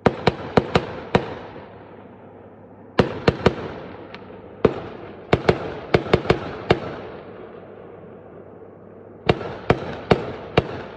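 Fireworks going off: clusters of sharp bangs in quick succession, with a burst right at the start, more a few seconds in, and another group near the end. Each bang is followed by a fading echo.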